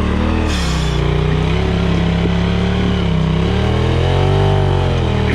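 Four-seat side-by-side UTV's engine working hard up a steep hill, its revs rising and falling.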